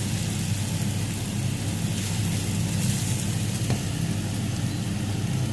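Chicken tocino sizzling in a frying pan: a steady hiss over a constant low hum.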